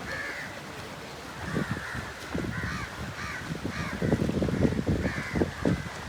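Crows cawing over and over, about eight short calls. From about four seconds in, louder low rumbling and knocks sound under the calls.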